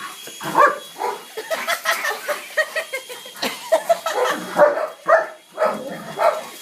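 German Shepherd barking in a rapid, continuous run of barks, about three a second.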